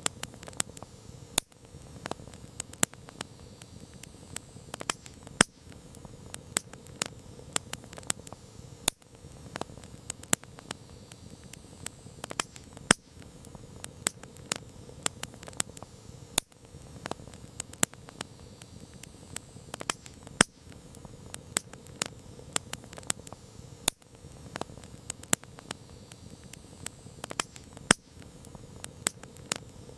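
Campfire crackling: irregular sharp snaps and pops, several a second, over a steady low hiss of burning wood.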